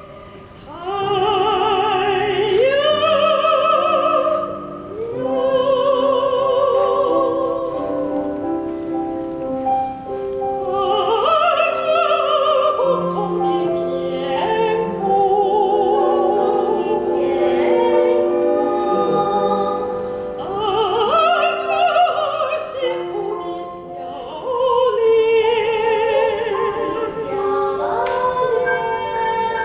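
A classically trained soprano singing long held notes with wide vibrato, with piano accompaniment and backing singers.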